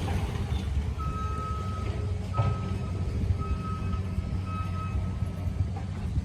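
Vehicle back-up alarm beeping, about five high beeps roughly a second apart starting about a second in, over a steady low rumble.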